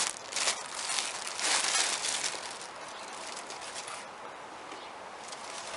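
Crinkling and rustling as the new engine air filter and its packaging are handled, in several short bursts over the first couple of seconds, then settling to a faint steady hiss.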